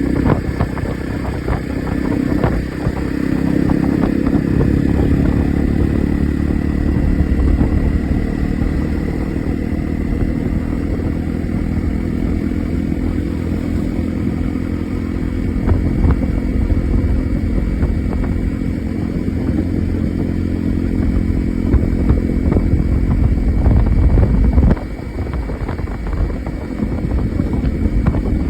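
Honda CRF rally motorcycle engine running during a test ride, steady and loud for most of the ride, dropping in loudness near the end as the throttle comes off.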